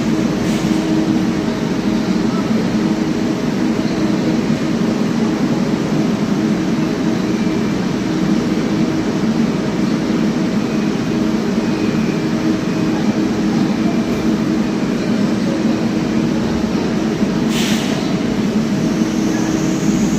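Public transport vehicle running steadily: an even rumble with a constant low hum, unchanging throughout, and a brief hiss near the end.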